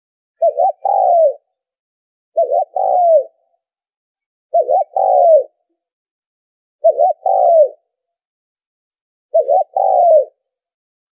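Spotted dove cooing, five phrases in turn, each two short notes and then a longer falling coo, repeated about every two and a half seconds. It is the dove's call played to lure wild doves to a trap.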